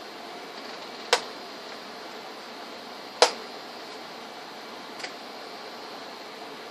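Three sharp clicks over a steady hiss, spaced about two seconds apart; the second is the loudest and the last is faint.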